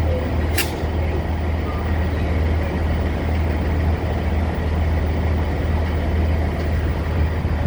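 Steady low hum of a train idling at a station platform, over a constant haze of background noise, with one short sharp click about half a second in.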